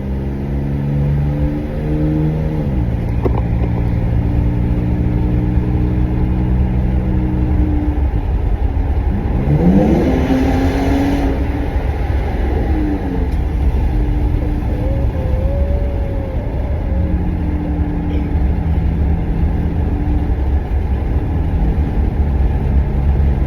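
Pickup truck engine with an MBRP aftermarket exhaust under way, running steadily and dropping in pitch twice as it shifts up. Around ten seconds in, a rising sweep with a burst of hiss passes over it.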